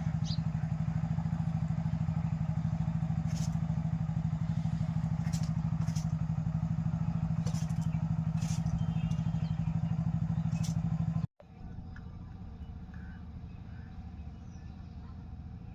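An engine running steadily with a fast, even pulse, with a few sharp high clicks over it. It cuts off abruptly about eleven seconds in, leaving a much quieter outdoor background.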